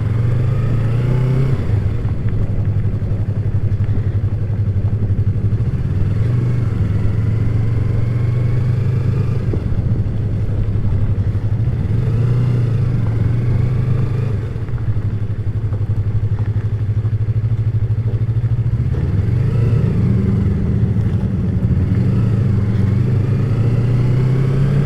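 Yamaha MT-03 motorcycle engine running while riding at low speed, its pitch rising and falling with throttle and gear changes.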